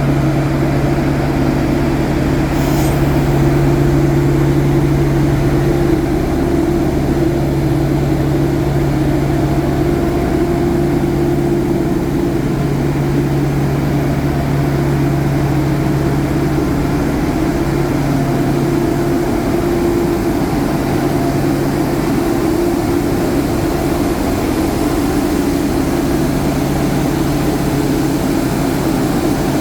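Train locomotive engine running steadily with a low, even hum.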